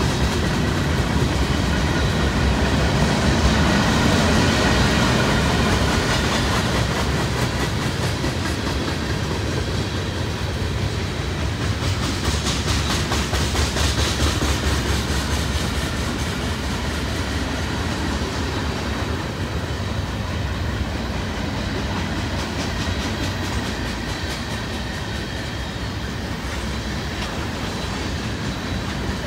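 Freight cars of a mixed-manifest train (boxcars, tank cars, covered hoppers) rolling past: a steady rumble of steel wheels on rail with a regular clickety-clack, louder in the first few seconds and with a brighter high hiss about twelve seconds in, easing off slightly toward the end.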